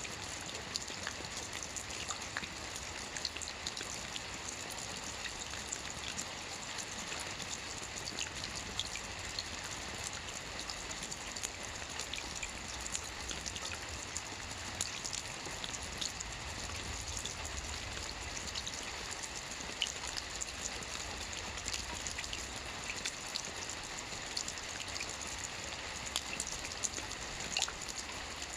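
Light, steady rain with a dense patter of individual drops ticking on a surface, without thunder.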